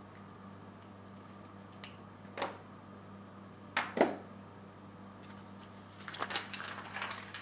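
Household objects handled by hand: four separate knocks, the fourth the loudest, then a run of light clattering and rattling, over a steady low hum.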